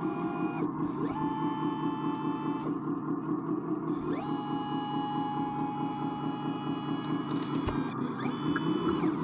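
Scale RC construction machine at work: a steady, evenly pulsing rumble like a simulated diesel engine, with electric motor whines that spin up, hold one pitch and wind down, one ending about half a second in and three more following, the longest a few seconds.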